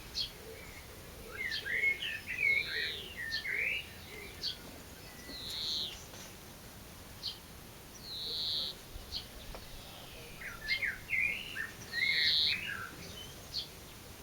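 A songbird singing in repeated short phrases of warbled notes a few seconds apart, several of them with a higher, rasping flourish.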